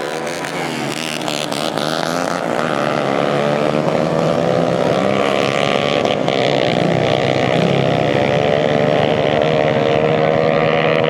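Dirt bike engine running at high revs, held steady and growing louder, as in a drag run going past.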